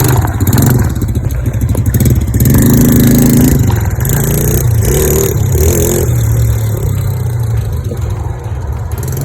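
Dirt bike engine running and revving, loudest about three seconds in, then gradually quieter toward the end.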